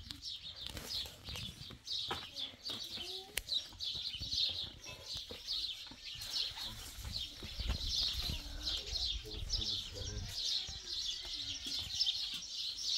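Many small birds chirping busily and continuously, with a low rumble underneath.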